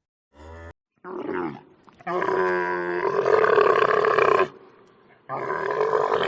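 A large animal calling: a short pitched call about a second in, then two long, loud calls, each about two and a half seconds.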